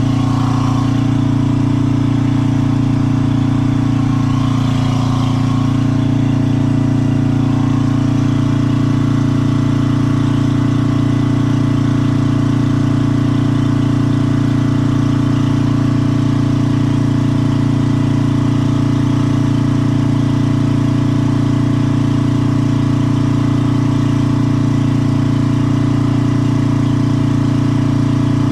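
Small engine idling steadily at an unchanging speed, a loud constant hum.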